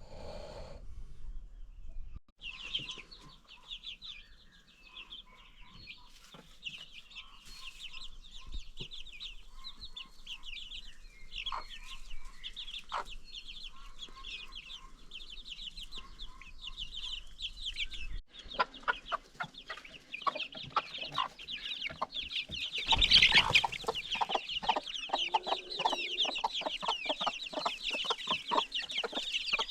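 A brood of baby chicks peeping constantly in high, rapid chirps. From about two-thirds of the way through, a hen joins in with quick runs of clucks, loudest about three-quarters of the way through.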